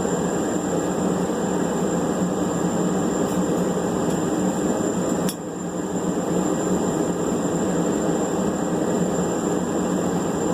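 Steady rushing roar of running shop equipment, with one sharp click about five seconds in.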